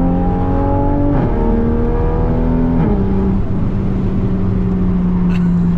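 Toyota GR Supra MK5's B58 turbocharged straight-six pulling under light acceleration, heard from inside the cabin: the pitch climbs and drops with two upshifts, about a second in and about three seconds in, then holds steady.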